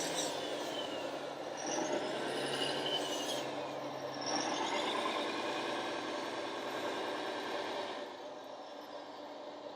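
Small electric motors and gearboxes of radio-controlled construction models whining, their pitch rising and falling as the machines speed up and slow down, over a steady mechanical hum.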